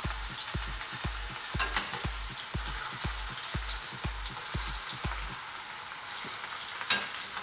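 Spinach-potato pakoras sizzling in shallow oil as they are turned over with spoons, with light scraping and one sharp knock near the end.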